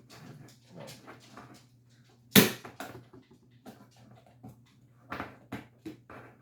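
Clicks and knocks of a seasoning container being handled and opened, with one sharp knock about two and a half seconds in and a few more near the end, over a faint steady low hum.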